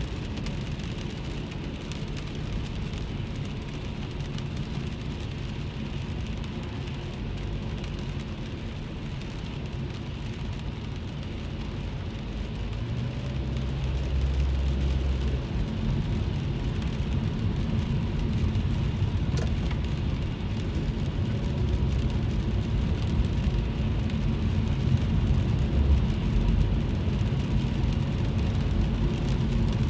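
Heard from inside a moving car's cabin: steady low road and engine noise with rain on the car's body, growing louder about halfway through.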